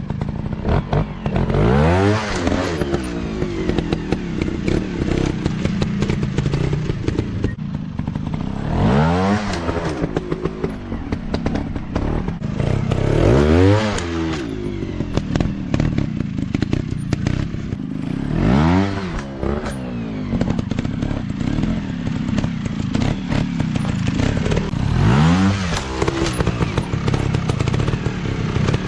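150 cc dirt-bike engines revving hard over and over, the pitch climbing steeply and dropping back about five times, with clattering and knocks throughout.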